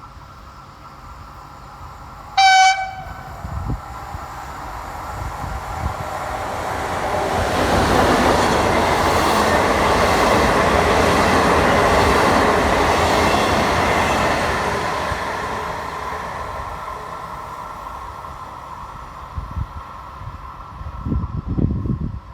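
A train sounds one short horn blast, then passes through the station. The rushing, rumbling noise swells to a peak and fades away over about ten seconds.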